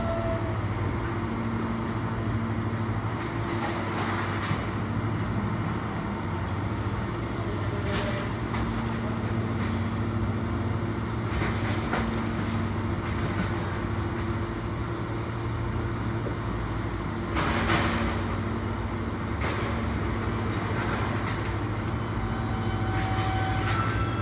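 New York City Subway L train running with a steady hum, broken by several short metallic clanks, the loudest about eighteen seconds in.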